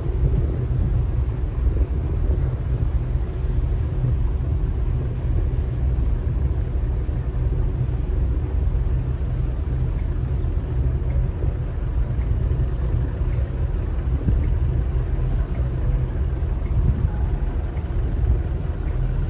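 Steady low engine rumble of a Chao Phraya river tourist boat under way, with a faint wash of water and wind.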